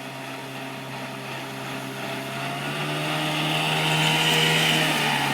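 A 14-foot motorboat's engine running at speed, its steady hum growing louder and a little higher in pitch as the boat comes close, loudest about four seconds in, with a rising hiss of water along the hull.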